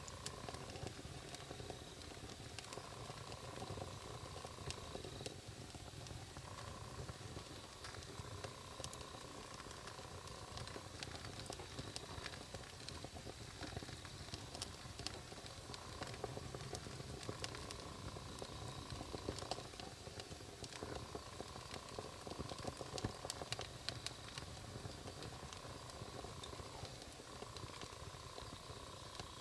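Wood campfire crackling, with irregular sharp pops and snaps over a low rumble of burning. A steady faint note comes and goes every few seconds in the background.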